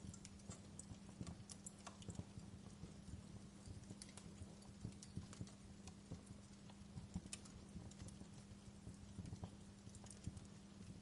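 Wood fire burning in a fireplace, crackling with irregular small pops and snaps over a low, steady hum.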